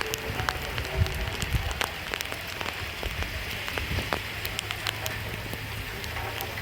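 Steady rain falling on a surface, with many separate drop hits heard through the hiss.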